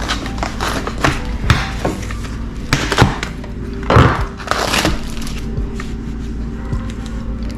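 Knife cutting vegetables on a wooden chopping board: a string of irregular knocks, the loudest about three and four seconds in.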